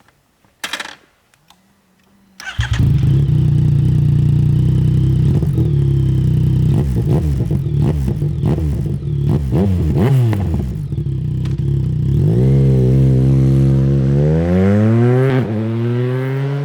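Yamaha MT-09 (RN43) 850cc three-cylinder engine with a Mivv Suono exhaust. After a short burst about a second in, the engine comes in suddenly at about two and a half seconds and runs loud and steady. It is revved up and down several times, with two longer rising revs near the end.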